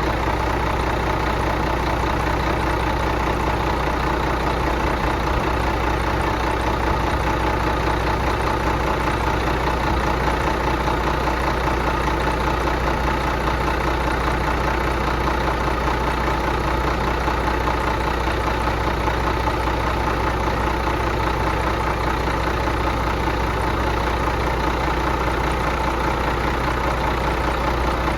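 Detroit Diesel engine running steadily at an even speed while it is being run to destruction.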